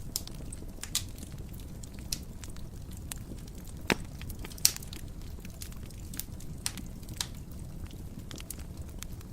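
Wood fire burning in a fireplace: a steady low rumble of the flames with irregular sharp crackles and pops, two louder pops a little before and after the middle.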